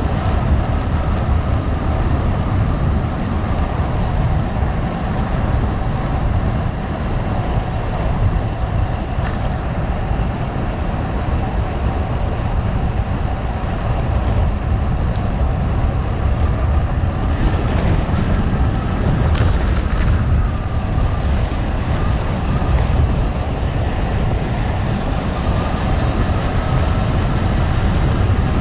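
Gravel bike rolling over rough gravel: a steady low rumble and crunch of tyres on loose stones, with a few sharp clicks.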